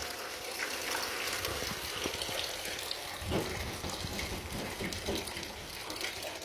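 Water running from a leak, a steady hiss with scattered small drips and splashes.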